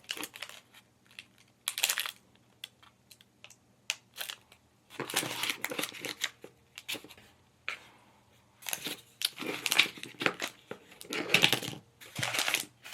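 Small plastic packaging crinkling and tearing in short, separate bursts as a blind-pack miniature kit is unwrapped by hand.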